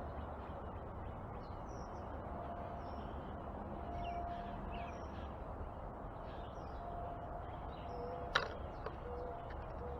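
Backyard songbirds chirping faintly and often, over a steady outdoor background hiss. There is one sharp click a little over eight seconds in.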